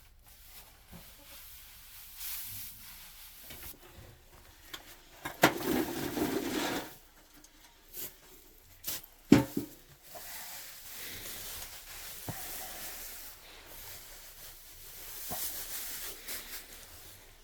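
Rustling and clattering of things being handled, with sharp knocks about five and a half seconds in and again near nine and a half seconds.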